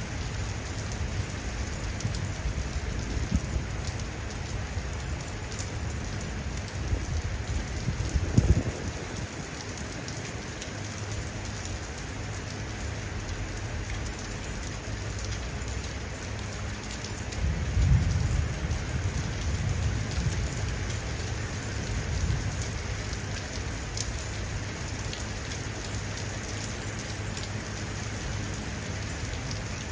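Steady rain falling on hard surfaces, with low rolling thunder twice: once building to about eight seconds in, then again a little past the middle.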